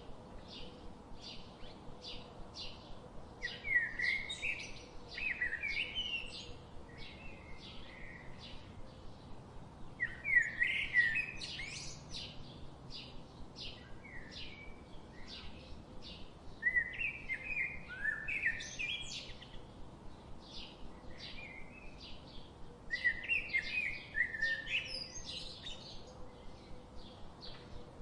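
Songbirds calling: a steady series of short chip notes about two a second, with louder, quick warbled song phrases breaking in four times, roughly every six or seven seconds.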